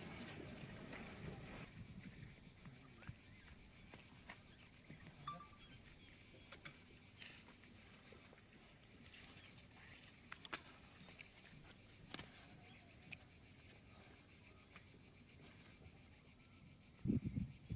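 A steady, high-pitched insect chorus like crickets, faint, with scattered small ticks and clicks. About a second before the end a louder, low rustling sets in.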